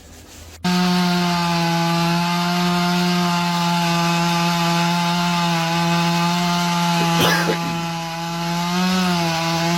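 Chainsaw running at high revs, cutting into a tree. It starts abruptly about half a second in with a steady whine, and its pitch dips and wavers near the end. A couple of short cracks come about seven seconds in.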